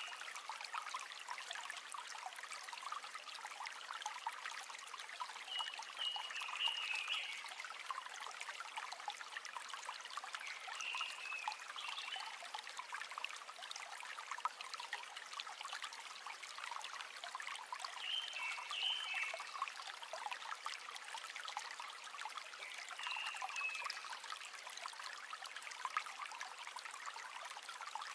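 River water flowing and trickling steadily, with short higher chirps coming back about every five seconds.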